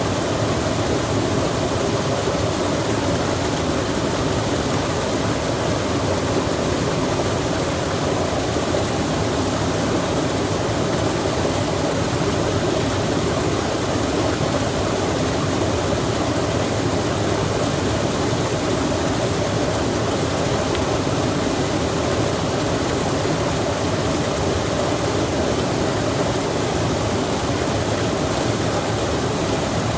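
Steady rushing of flowing water, even and unbroken, with no bird calls or other distinct sounds.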